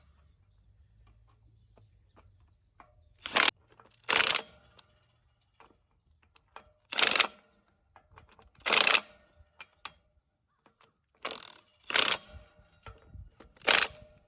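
About seven short, loud metal clanks and rattles at irregular intervals, from new teeth being fitted onto a hay wheel rake's wheel. A steady high chirring of crickets runs behind them.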